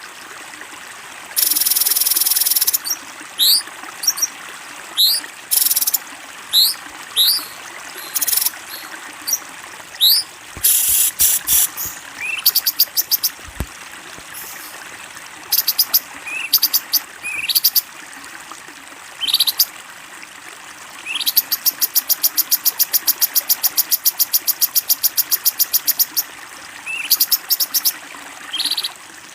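Recorded songbird calls laid over a steady background of running water: short, quickly rising whistled notes repeated many times, with bursts of rapid buzzy trills, including a long even rattle lasting about five seconds in the second half.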